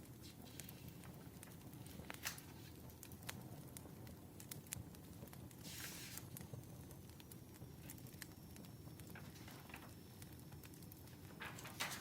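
Faint wood fire crackling: irregular snaps and pops over a low steady rumble, with a louder crackle about halfway through and another near the end, and a faint high whistle in between.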